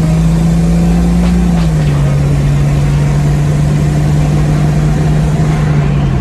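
Jeep Cherokee's 4.6-liter stroker inline-six running at a steady cruise, heard from inside the cabin over road noise, its drone dropping slightly in pitch about two seconds in. The engine is freshly rebuilt and being broken in.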